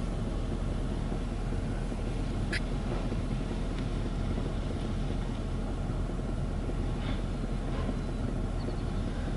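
Ryko Softgloss Maxx automatic car wash running with its brushes moving across the car: a steady mechanical rumble heard from outside the wash bay, with one short click about two and a half seconds in.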